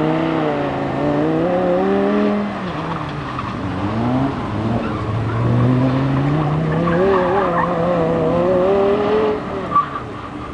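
Audi R8's V10 engine heard from a distance as the car is driven hard: its pitch climbs, falls away, and climbs again several times with throttle and gear changes. A short pop near the end.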